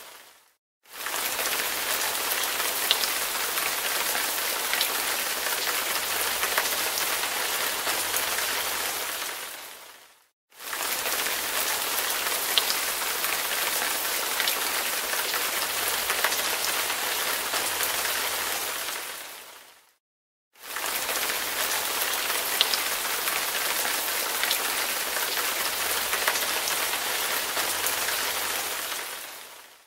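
Steady rain patter with scattered sharp drop ticks. It is laid down as the same roughly ten-second stretch three times over, each fading in and out with a brief silence between.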